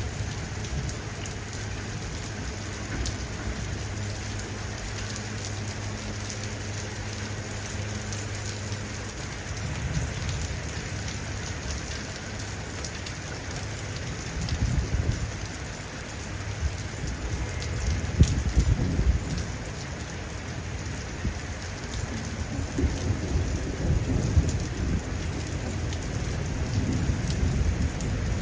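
Steady heavy rain falling, with several rolls of thunder rumbling through its second half. A low steady hum stops about a third of the way in.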